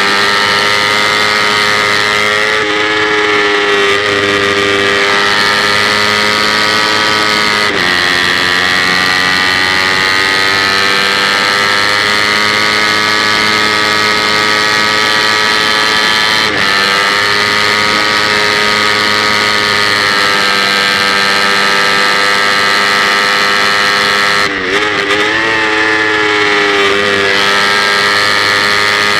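Kawasaki Ninja 250 race bike's engine held at high revs, heard from on board along with rushing wind. The pitch stays high but drops briefly a few times, as at gear changes, with a deeper, wavering dip a little before the end.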